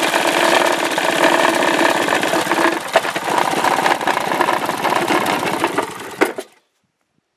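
Small Briggs & Stratton engine, recovered from the woods, running steadily with a rapid firing beat. It cuts off suddenly near the end.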